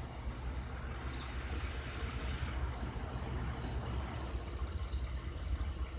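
A vehicle engine running with a steady low rumble and a slight flutter.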